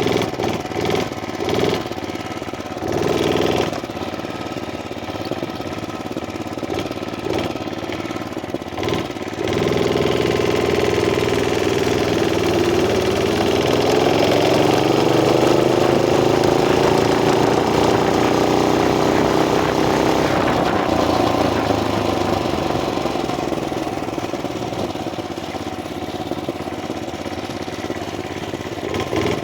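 Murray Track 2 mini bike's small single-cylinder engine running while it is ridden, picked up by a chest-mounted phone. Irregular knocks and rustling sit over the engine for the first several seconds. From about ten seconds in, the engine speed climbs and holds higher, then eases off after about twenty seconds.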